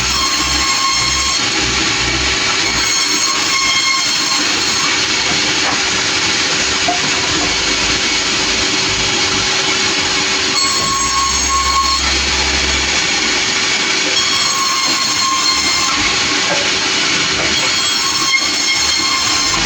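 Sawmill running and sawing a log: a loud steady machine noise with a constant hum and a high-pitched whine that rises and fades in several stretches.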